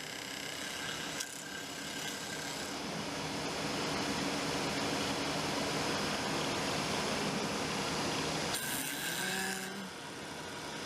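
CNC milling machine cutting a metal part: a steady cutting noise with a faint hum under it. There is a click about a second in and a brighter hiss about eight and a half seconds in.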